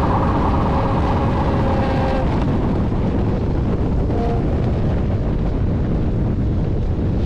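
Honda CB650F's inline-four engine, fitted with a LeoVince aftermarket exhaust, running steadily on the move, with heavy wind rumble on the microphone.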